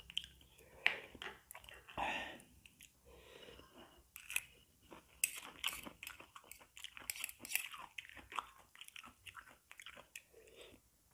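A person chewing a mouthful of fried instant noodles (Indomie Mi Goreng) close to the microphone: irregular wet mouth clicks and crunches throughout.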